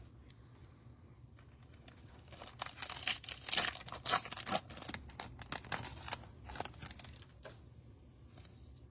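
Trading card pack wrapper being torn open and crinkled by hand, a dense run of crackling rips for about five seconds, loudest a few seconds in.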